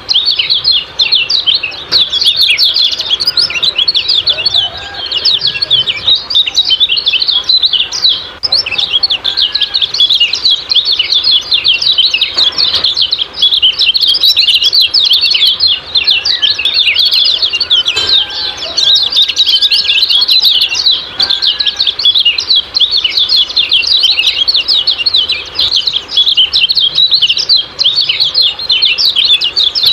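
Kecial kuning (yellow-spectacled white-eye) birds giving a dense, unbroken stream of quick, high 'ciak-ciak' chirps, with fainter lower whistled notes now and then.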